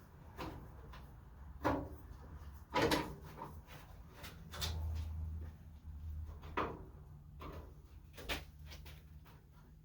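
Irregular clicks and knocks of hand tools and small parts being handled while working at stuck screws on a car's front panel, about eight in all, with a low hum for a few seconds in the middle.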